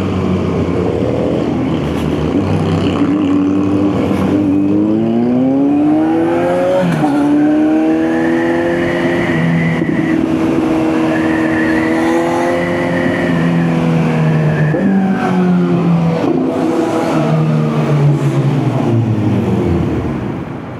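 Kawasaki Z900 inline-four engine accelerating, its pitch rising in steps through the gear changes. It then holds a steady speed and falls away as the bike slows, with short jumps at the downshifts, and drops off near the end.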